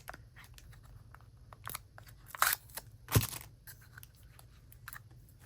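Washi tape packaging being handled and torn open: scattered crinkles and crackles, with two louder crackles a little past the middle.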